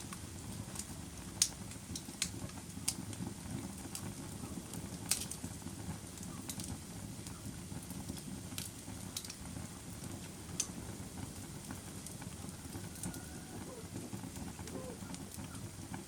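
Wood fire burning in a fireplace: a low steady rush of flames with sharp crackles and pops, roughly one a second, more frequent in the first half.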